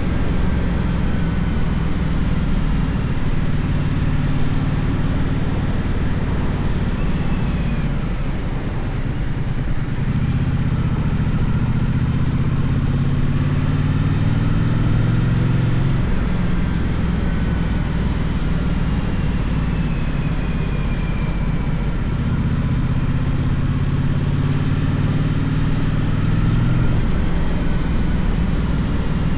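Gaokin GK1200 motorcycle engine running while riding. Its note drops and eases about 8 seconds in, climbs again from about 10 seconds, and changes pitch again around 16, 22 and 27 seconds as engine speed goes up and down.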